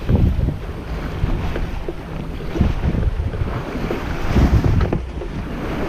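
Wind buffeting the microphone over the rush of water along the hull of an O'Day 23 sailboat moving at speed under sail, in irregular gusty surges.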